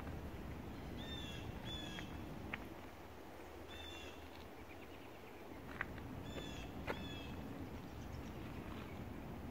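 Wild birds calling in woodland: short, arched call notes, mostly in pairs about half a second apart, repeated several times. A few sharp clicks and a steady low background rumble run alongside.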